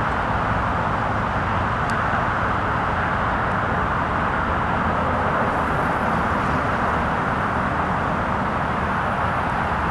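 Steady rush and rumble of a passenger train hauled by an EP20 electric locomotive running along the track. A faint high whine sets in about five seconds in.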